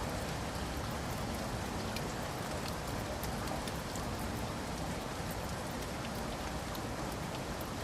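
Steady rain falling on a surface, an even hiss with many small drop clicks.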